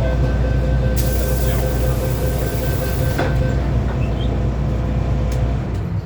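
Inside a Hong Kong MTR M-Train (Metro Cammell EMU) carriage on the move: a steady heavy rumble of wheels on rail, with a steady motor whine that fades out past the middle. A loud hiss lasts for about two seconds early on, and a few light clicks are heard.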